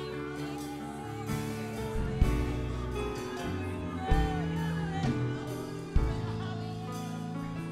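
Live gospel music with singing: sustained chords over a bass line and drum hits that land about every second and a half to two seconds.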